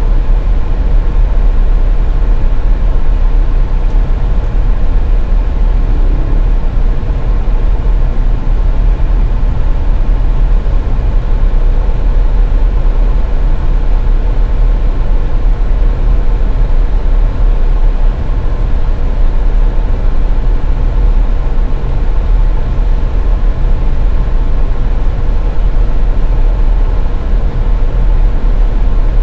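Steady rumble of a car driving on a snowy highway: a low road and tyre noise that does not change, with a faint steady hum over it.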